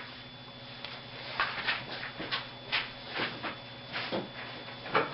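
Short, quick strokes of a pen or marker drawing on a board, about nine of them in the second half, over a faint steady hum.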